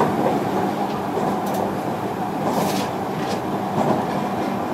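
Interior running noise of a JR Kyushu 305 series electric multiple unit motor car between stations: a steady rumble of wheels on rail, with steady hum tones from its VVVF inverter and permanent-magnet traction motors. A brief hiss comes about two and a half seconds in.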